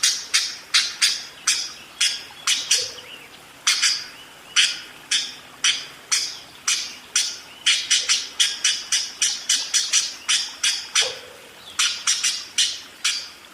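Budgerigar (parakeet) giving rapid runs of short, sharp chirping calls, several a second, broken by two brief pauses.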